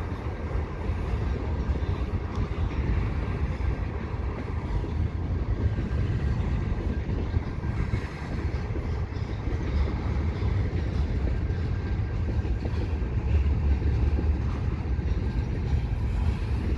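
Freight train cars rolling slowly across a railway bridge, making a steady low rumble.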